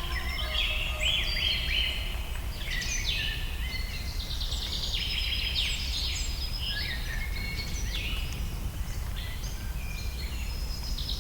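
Several birds singing and chirping together in a forest chorus, with quick overlapping trills and chirps, over a steady low background rumble.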